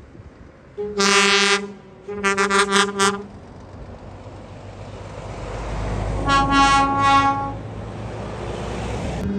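Truck air horns. One horn gives a long blast about a second in, then a quick run of four short toots. Near the middle, a second horn of slightly higher pitch gives several short toots over a swelling engine rumble as a truck goes by.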